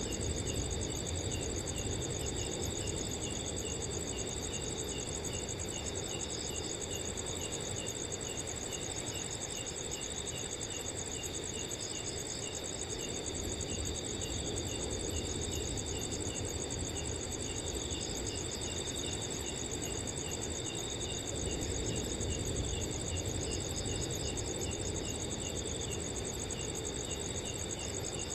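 Several crickets calling at once at different pitches: a high continuous trill, with another chirping evenly a few times a second. Under them, a low rumble of wind rises and falls.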